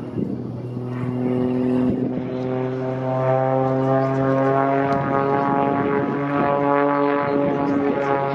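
Propeller aircraft flying past, its engine a steady pitched hum that comes in about a second in and grows louder.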